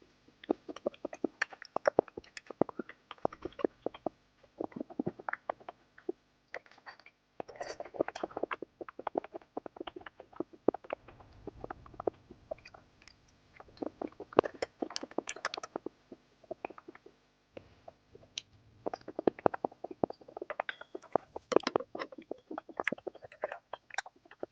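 A person chewing and smacking sticky, gooey food, with many quick wet clicks in bursts of a few seconds and short pauses between mouthfuls.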